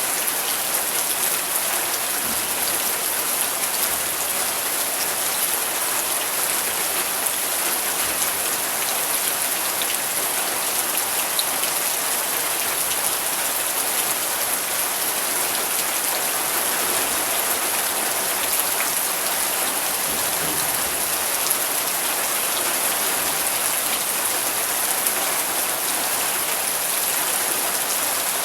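Steady rain falling, an even hiss with fine scattered drop ticks and no thunder.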